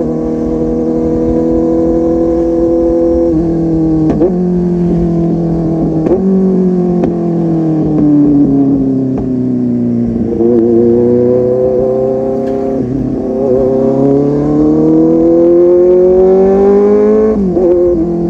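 Kawasaki Z800's inline-four engine running through a full-system aftermarket exhaust while riding. The revs step through quick gear changes a few seconds in, fall away as it slows, jump up about ten seconds in, then climb steadily before a gear change near the end.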